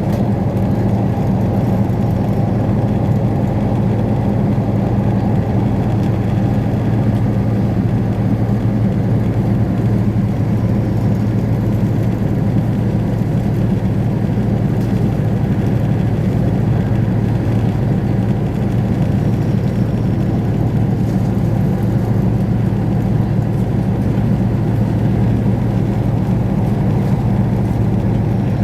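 Steady low hum and running noise of a Thai State Railway express train, heard from aboard the moving train, unchanging throughout.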